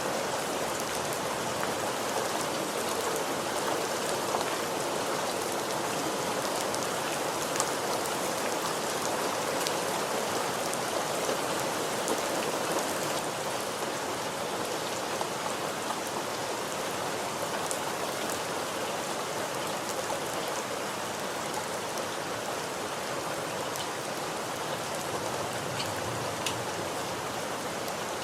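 Steady rain falling, a dense even patter with individual drops ticking here and there on a surface.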